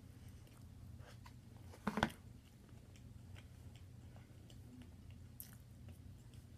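A person chewing a mouthful of steak, with small wet mouth clicks. There is one brief louder knock or smack about two seconds in.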